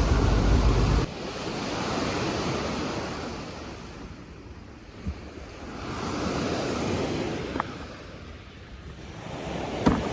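Lake waves washing onto the shore, swelling and fading about every four seconds. About a second in, a loud burst of wind rumble on the microphone cuts off suddenly.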